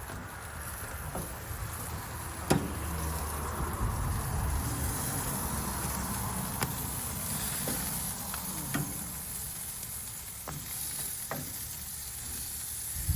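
Chicken pieces sizzling on a hot grill as they are turned, with a few sharp clicks, the loudest about two and a half seconds in.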